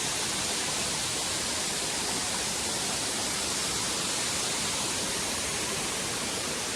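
Waterfall running full after heavy rain, a steady, even rush of falling water.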